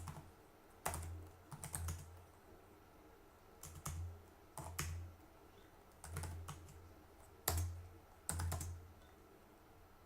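Computer keyboard typing in short bursts of keystrokes, with pauses of about a second between them, as a command is typed into a terminal.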